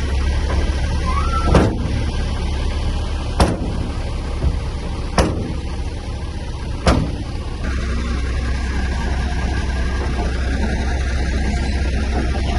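Heavy diesel earthmoving machinery running steadily with a deep low drone, with four sharp knocks about two seconds apart in the first half.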